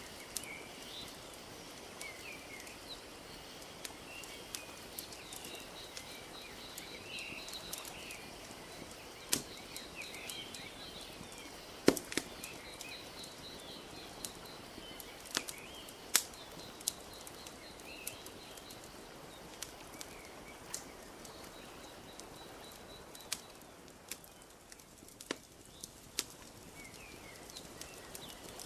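Wood fire crackling, with sharp irregular pops, the loudest about 12 seconds in, over a soft steady wash of lapping lake water. Small birds chirp now and then, with a rapid high trill repeating at intervals.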